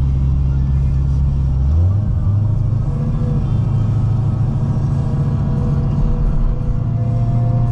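Supercharged C6 Corvette ZR1 V8 running at steady highway speed, a deep, even drone. Its pitch shifts to a new level about two seconds in.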